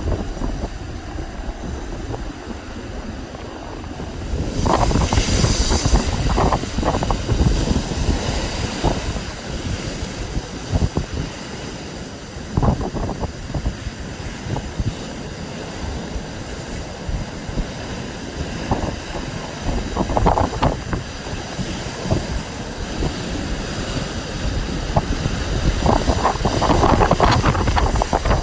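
Gusting storm wind buffeting the microphone in uneven surges over the steady rush of a rough sea.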